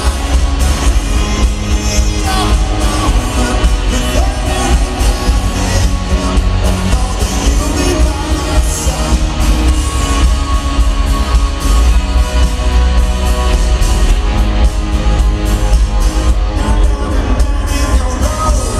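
Rock band playing live in a stadium, loud and steady, with heavy bass and singing.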